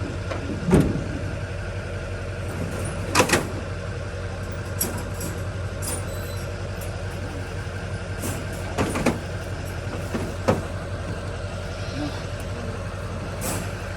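A vehicle engine running steadily with a low hum, with several sharp knocks spread through it.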